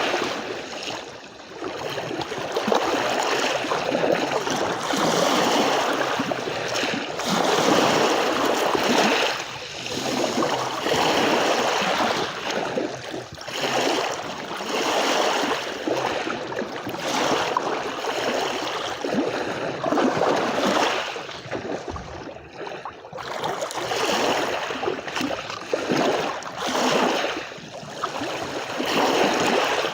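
Small sea waves washing onto a beach: a continuous wash of surf that swells and ebbs every couple of seconds.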